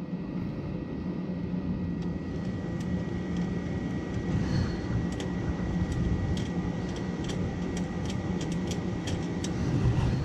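Heavy rain falling, a steady low rush with scattered light ticks of drops striking hard surfaces.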